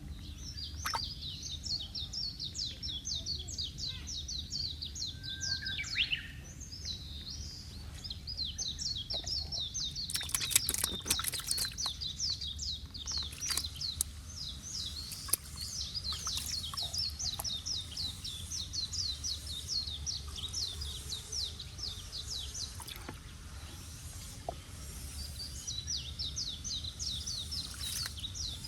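Birds chirping in long runs of rapid, high-pitched notes, each note sliding downward, with a couple of short pauses. A steady low hum runs underneath, and a few sharp knocks come about ten seconds in.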